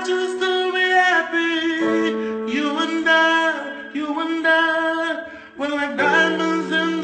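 A solo voice singing a song in long, drawn-out notes over a steady held accompaniment.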